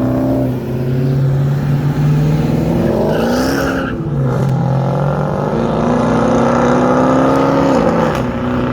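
A car engine under hard acceleration, its pitch climbing steadily. The pitch drops briefly about four seconds in, then climbs again and falls away near the end.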